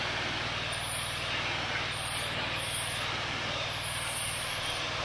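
Petrol pressure washer running: a steady engine drone under the even hiss of the water jet.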